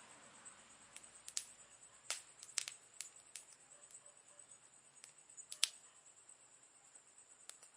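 Wood fire crackling quietly, with scattered sharp pops at irregular moments; the loudest pop comes about two thirds of the way through.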